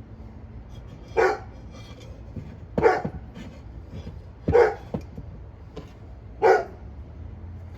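A dog barking four times, one short bark about every two seconds.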